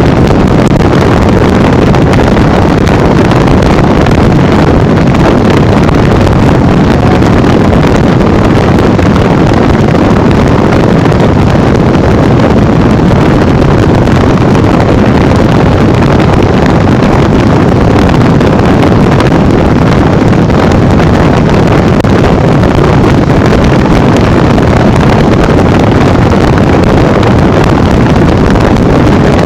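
Loud, steady rush of wind on the microphone while riding a Honda Bros 150 motorcycle at highway speed, with the bike's running noise mixed in.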